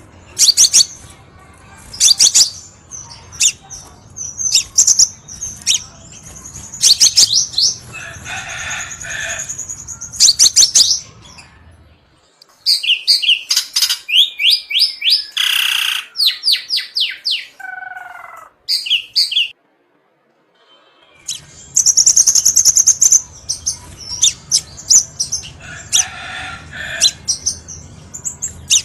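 Crimson sunbird (kolibri sepah raja) calling and singing: sharp, high chirps and fast trills repeated in runs, with a few longer buzzy notes. About halfway through, the low background hum drops away under a run of quick notes, then there is a short pause before the calls and hum return.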